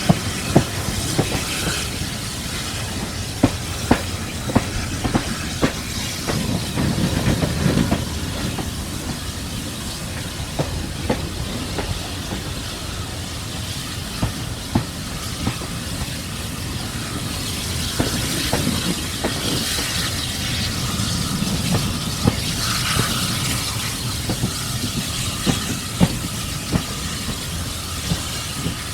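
Steam-hauled train behind Caledonian Railway 0-4-4T tank locomotive No. 419, on the move: a steady rumble and steam hiss, with wheels clicking sharply over rail joints at irregular intervals.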